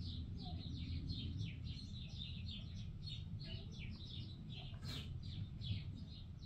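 Birds chirping: many short, falling chirps in quick succession, over a steady low hum, with a single sharp click about five seconds in.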